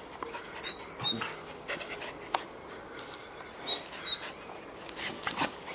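Small bird chirping in two runs of three quick high notes, about half a second in and again about three and a half seconds in, over the scuffling of two Schapendoes dogs play-fighting on grass.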